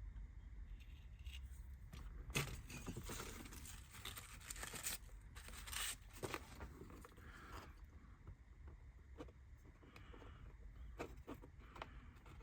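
Light scraping and a few small clicks of laser-cut kit parts being handled and fitted, busiest in the first half and with a few more clicks near the end.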